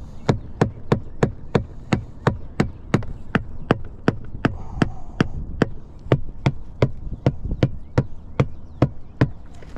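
A steady series of sharp knocks, about three a second, evenly spaced and unbroken.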